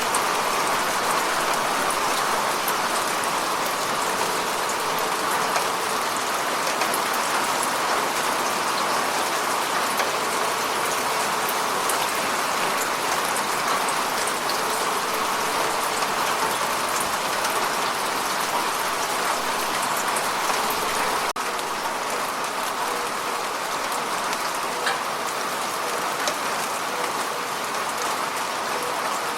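Heavy rain falling steadily, with scattered small drop ticks. It cuts out for an instant about two-thirds of the way through and comes back slightly quieter.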